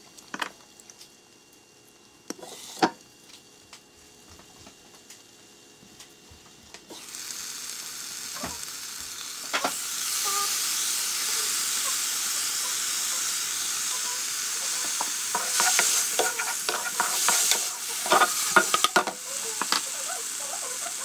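Shiitake-stem nuggets, bok choy and onion stir-frying in a nonstick pan. It is faint with a few light clicks while the lid is on, then a steady sizzle from about seven seconds in, with a utensil scraping and stirring in the pan near the end.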